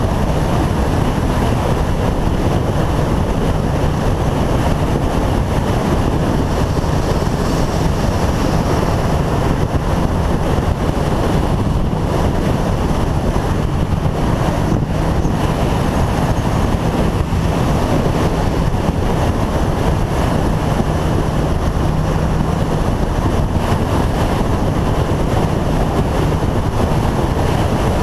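Motorcycle riding at a steady cruising speed: engine running with heavy wind rushing over the microphone.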